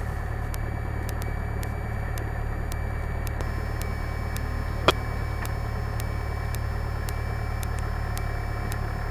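Cessna 172 Skyhawk's piston engine running steadily at low taxi power, a constant low hum. A single sharp click comes about five seconds in.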